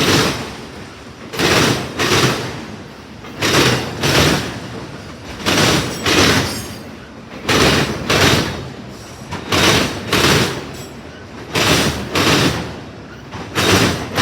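Wheels of a passing CSX freight train clacking over a rail joint. Loud pairs of clacks about half a second apart repeat at a steady rhythm of roughly one pair every two seconds, as each pair of neighbouring wheel sets crosses the joint.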